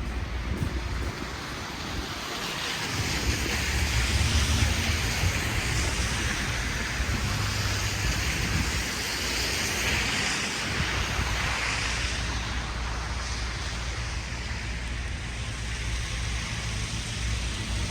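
Street traffic on a snowy city street: a tyre hiss that swells and fades over a low, steady rumble of vehicles.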